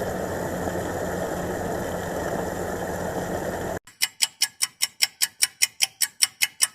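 An engine running steadily with a low hum, cutting off suddenly about four seconds in. Then a rapid, even ticking, about five ticks a second.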